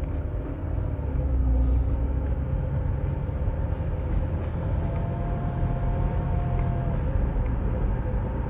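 Car driving along a road: a steady low rumble of engine and tyres, with faint whining tones that drift in pitch.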